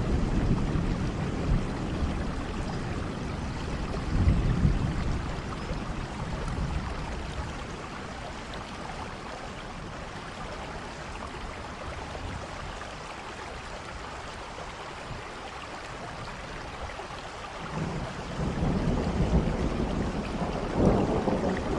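Steady rain falling, with low rumbles swelling up at the start, about four seconds in, and again over the last few seconds.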